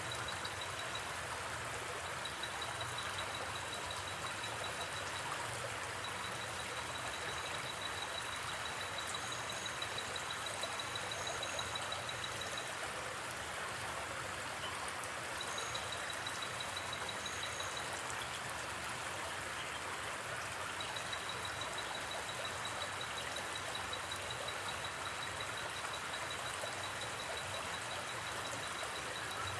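River water flowing in a steady, even rush. Over it, a night insect gives a high, rapidly pulsed trill in runs of several seconds, with a few short higher chirps now and then.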